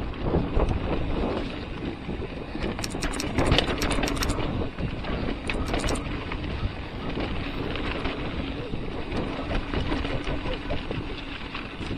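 Wind rushing over the microphone as a mountain bike descends a dirt trail, tyres rolling and the bike rattling, with a spell of sharp clattering about three to four seconds in and again briefly near six seconds.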